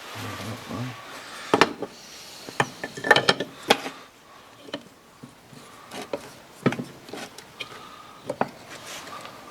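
Hand tools and metal engine parts clinking, tapping and scraping on a workbench during engine reassembly: irregular sharp knocks, with a quick flurry of clinks about three seconds in.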